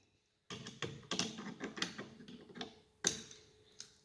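Light metallic clicks and taps as tools and steering rack parts are handled during reassembly: an irregular run of small clicks, then one sharper click about three seconds in.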